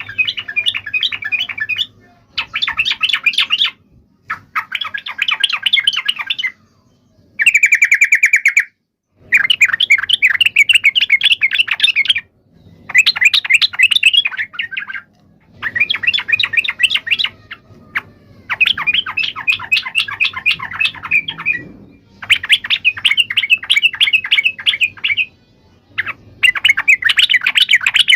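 Yellow-vented bulbul (trucukan) giving its loud, excited chattering fighting call: bursts of rapid notes about two to three seconds long, repeated after short pauses. One phrase near the middle is a steadier ringing note.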